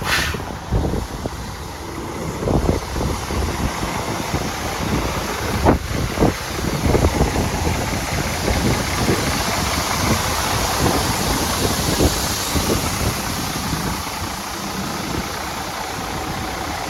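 Volvo VNL semi truck's diesel engine idling, with wind buffeting the microphone; a sharp click about six seconds in.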